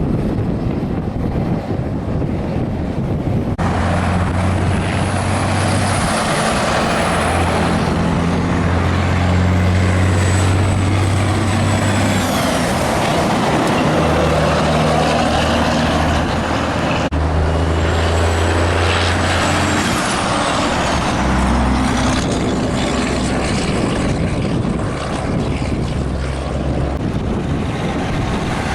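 Big-rig trucks passing on a highway, their diesel engines running with low tones that step up and down in pitch over loud tyre and road noise. The sound changes abruptly twice, about three and a half seconds in and again about seventeen seconds in.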